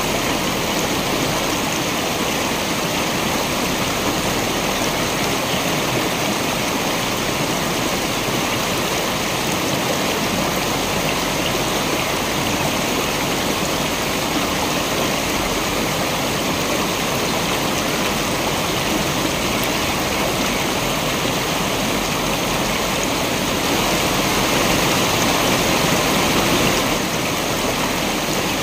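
Waterfall water rushing steadily, a dense even hiss, swelling slightly louder for a few seconds near the end before dropping back suddenly.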